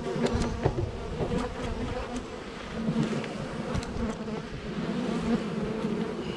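Honeybees buzzing around an open hive, a steady hum, with a few light clicks in the first couple of seconds.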